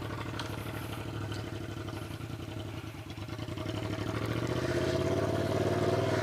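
Yamaha MT-07's parallel-twin engine running loud with its muffler removed, straight-piped, on the move; it dips slightly about three seconds in, then grows louder as the bike pulls.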